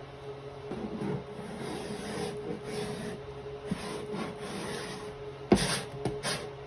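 Irregular rubbing and scraping on a wooden nightstand as its stripped old paint is worked off. There is a sharp knock about five and a half seconds in.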